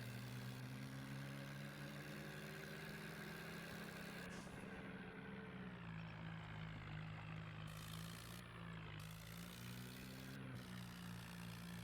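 Mahindra Arjun tractor's diesel engine running steadily, its note dropping a little about halfway through and picking up again near the end.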